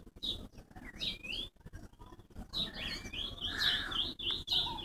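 Songbird singing: quick, wavering chirps and warbles, sparse at first and coming in a near-continuous run from about halfway through.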